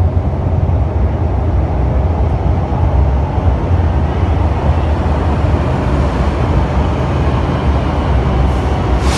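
Electric passenger train running with a steady low rumble.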